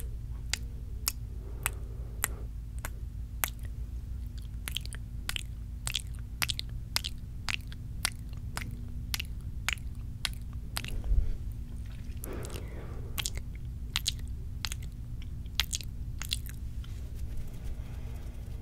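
Close-miked ASMR mouth sounds: a rapid, irregular run of wet tongue and lip clicks and pops, a few every second.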